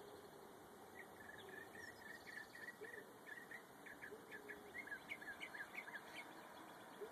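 A songbird singing faintly: a long run of short, high notes, each dropping in pitch, repeated several times a second from about a second in until near the end.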